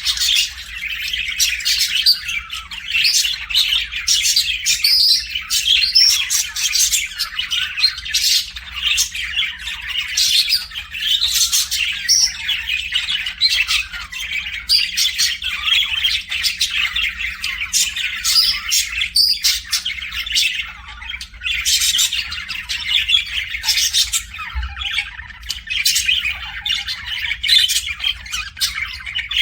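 A flock of small cage birds in an aviary chattering nonstop: a dense mix of overlapping chirps and squawks, many short high calls at once.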